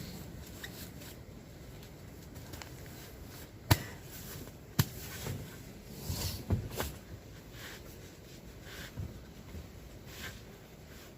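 Two sharp clicks about a second apart, followed by a few softer knocks and rustles: small objects being handled.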